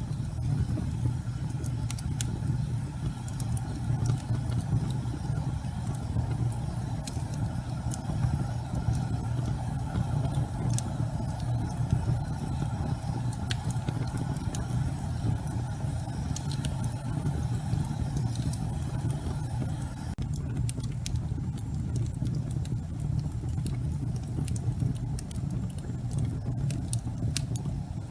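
Wood logs burning in a fireplace: a steady low rumble of flames with scattered sharp crackles and pops throughout.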